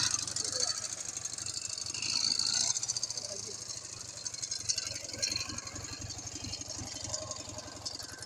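Freshly overhauled Ural motorcycle's flat-twin engine running with a steady low pulsing beat and some rattle.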